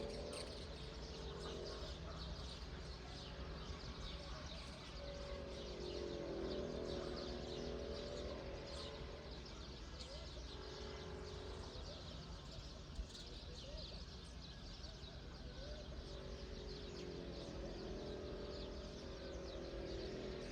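Small birds chirping on and off against a steady low outdoor rumble. A low, wavering pitched sound swells and fades every few seconds.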